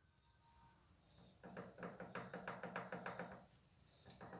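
Clutch basket gear of a Yamaha YBR being turned by hand, giving a fast run of faint clicks for about two seconds, starting a second and a half in. The owner suspects a chewed gear on the clutch basket, as his mechanic said.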